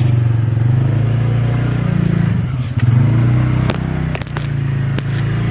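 A small vehicle's engine running and revving up briefly about two seconds in as it pulls away, with a few sharp clicks near the middle.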